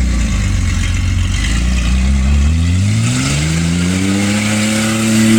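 Pickup truck engine running at low revs, then revving up from about two seconds in and holding high revs, as in spinning doughnuts.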